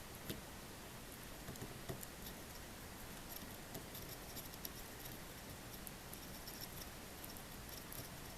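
Faint, irregular little ticks and taps from hand soldering work as a capacitor is fixed onto a graphics card's circuit board, over a steady low hiss.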